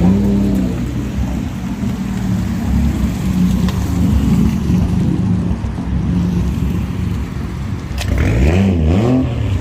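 A car engine running steadily, then revved up and down a few times near the end.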